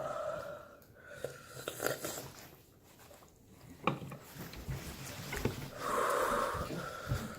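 A person breathing hard through the mouth after a bite of a hot-sauce wing, with sharp breathy exhales, the longest about six seconds in, and a few small mouth clicks and taps in between.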